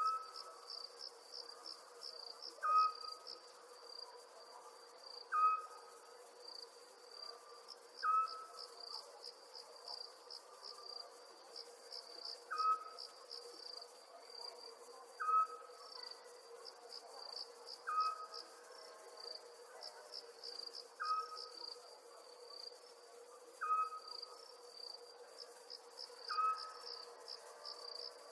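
Crickets chirping in a continuous high, pulsing trill. A short pitched call note stands out above them, repeating at an even pace about every two and a half to three seconds, over a steady low hum.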